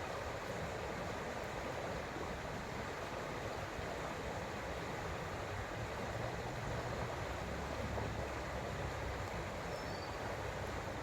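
Creek water running in a steady, even rush, with a slightly deeper swell in the middle.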